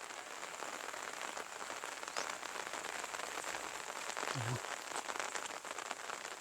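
Steady light rain falling, a soft hiss with the fine pattering of many small drops.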